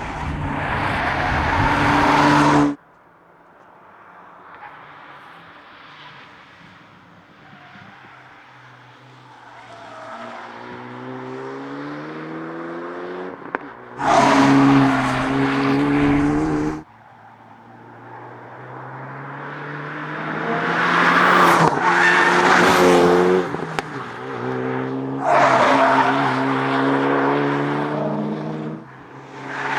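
Hyundai i30N's 2.0-litre turbocharged four-cylinder engine under acceleration, its revs climbing again and again. Loud noisy stretches cut in and out abruptly between the climbs.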